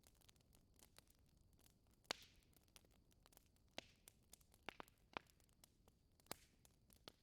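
Wood fire crackling in a fireplace: scattered faint ticks with a few sharper pops, the loudest about two seconds in, some trailing a brief hiss.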